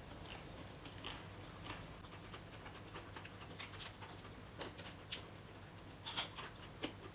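Quiet close-up eating sounds from two people having papaya salad and fried chicken: soft chewing, wet lip smacks and scattered small clicks, with one sharper click about six seconds in.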